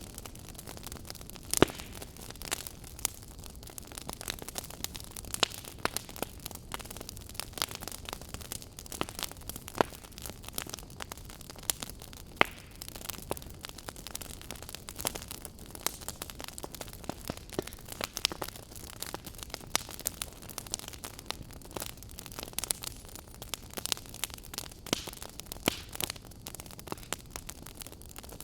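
Wood fire in a fireplace crackling: a steady low hiss with frequent irregular sharp pops and snaps, one louder pop about a second and a half in.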